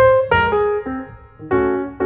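Background piano music: a melody of struck notes and chords, each note decaying after it is played.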